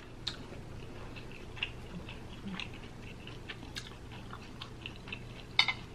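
A person chewing a mouthful of food close to the microphone, with many small wet clicks and smacks and a slightly louder one near the end.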